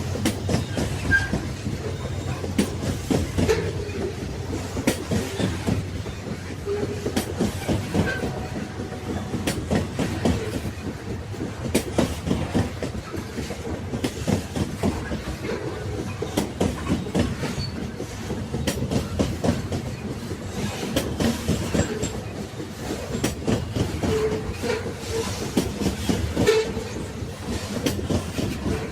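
Railway carriages running along the track: a steady rumble with continual clickety-clack of wheels over rail joints, and occasional brief squeaks and rattles.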